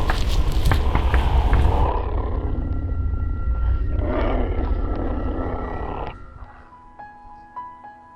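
Music with a deep, rumbling roar sound effect, which stops about six seconds in, leaving soft held music notes.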